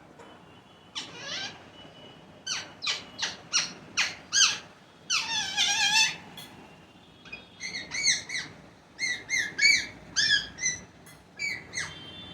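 Pet parrots squawking: runs of short, harsh calls that drop in pitch, with one longer, wavering call about halfway through.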